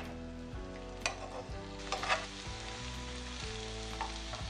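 Cheese parathas frying in ghee in a non-stick frying pan on low heat: a steady, gentle sizzle. A spatula knocks lightly against the pan about a second in and again about two seconds in.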